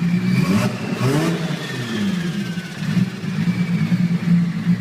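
Car engine idling, revved once about half a second in and dropping back to idle, with a faint high whine that slowly falls in pitch.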